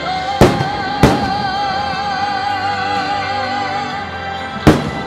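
Music with a singer holding one long wavering note, and three firework shells bursting with sharp bangs over it: two in the first second and one near the end.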